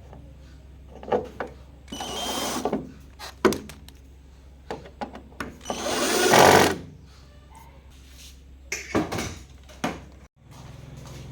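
A small power tool runs in two short bursts, with clicks and knocks between them, over a steady low hum. The sound cuts off abruptly near the end.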